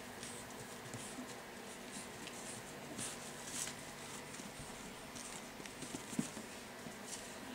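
Young puppies scuffling about on the pen floor: light pattering of small paws and scattered soft taps and clicks, one a little louder about six seconds in.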